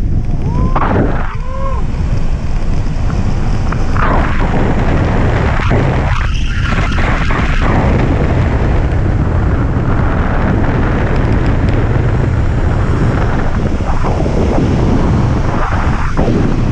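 Strong wind rushing and buffeting over the microphone of a camera carried on a hang glider in flight.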